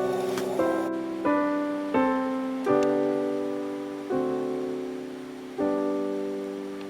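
Background piano music: slow, gentle chords struck about once a second or more and left to ring and fade.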